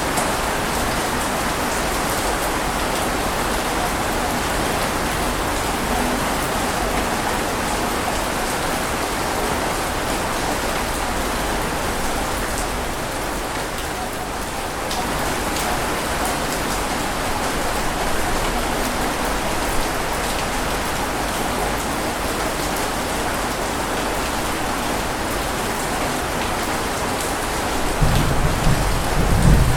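Steady rain, an even hiss with fine drop ticks. A low rumble comes in near the end.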